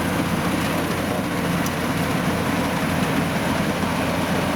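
Combine harvester running steadily as it cuts rice: an even engine and machinery drone with a low hum underneath.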